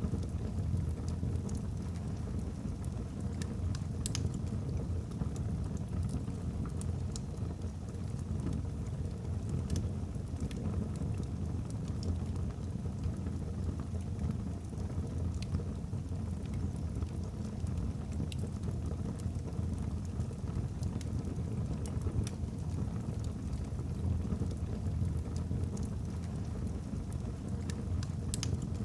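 Log fire burning in a fireplace: a steady low rumble of the flames, with a sharp crackle from the logs every few seconds.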